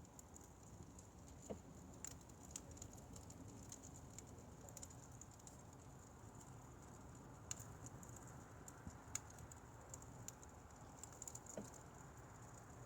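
Burning firewood crackling softly, with irregular small ticks and a few sharper pops over a low, steady hiss of the flames.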